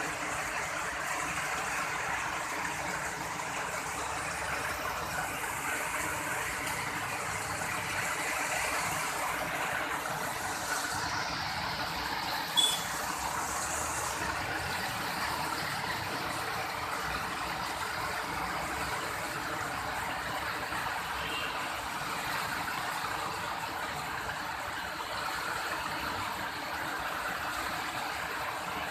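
Steady rain falling, an even hiss, with one brief sharp sound about halfway through.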